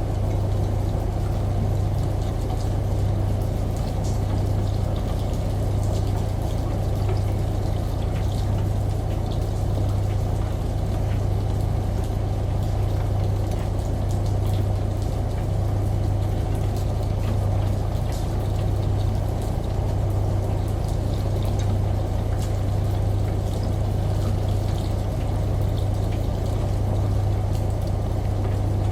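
Steady low hum of a running washing machine under an even wash of running water, with faint scattered drops ticking through it.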